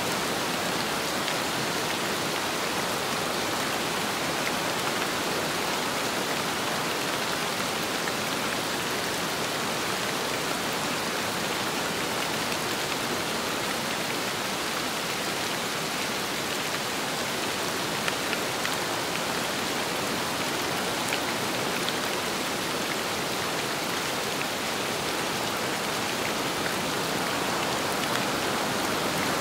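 Steady rain and wind, an even rushing hiss with a few sharper drop ticks.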